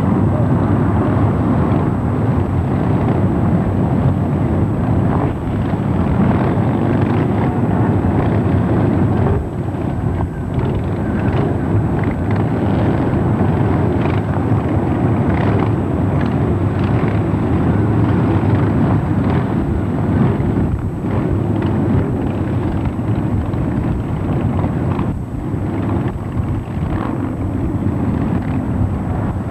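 Continuous loud rumble of many motorcycle engines riding past in a mass ride, with brief dips in level about nine seconds in and again near the end.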